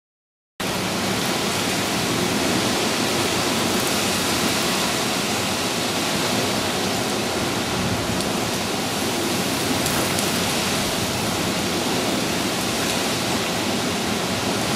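Hurricane winds gusting at about 50 miles an hour, with rain: a dense, steady rushing noise that starts abruptly about half a second in.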